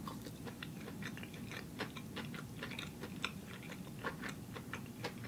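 A person chewing a piece of plant-based Impossible Burger patty, heard as a quiet, irregular run of small mouth clicks.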